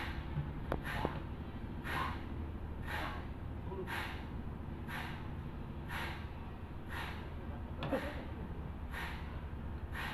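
Sawmill machinery running at low level: a steady low hum with a short hiss repeating about once a second.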